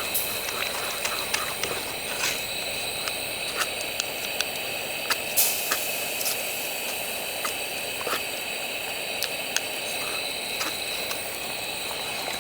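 Wood fire crackling with scattered sharp pops over a steady hiss, as from a pot simmering on it.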